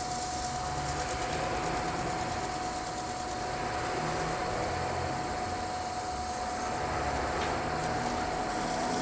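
Wood lathe running steadily at its slow speed of about 530 rpm, a constant motor hum with a steady whine over it.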